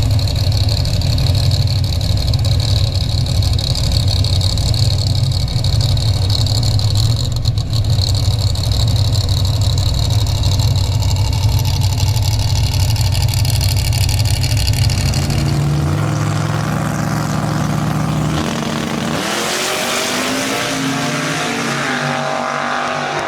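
Drag car engine idling with a loud, steady low rumble for about fifteen seconds. The rumble then drops away, and near the end an engine revs up with a rising pitch.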